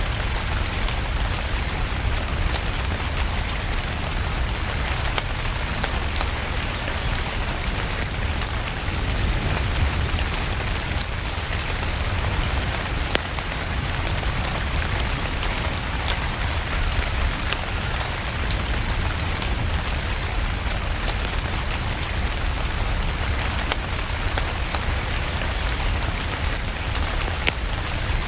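Steady rain mixed with a crackling wood fire: an even hiss over a deep low rumble, with scattered sharp crackles throughout.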